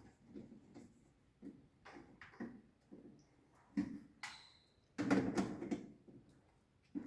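Plastic clicks and knocks of miniature circuit breakers being handled and fitted into a distribution board, a scattered handful of short taps with a louder cluster near the end.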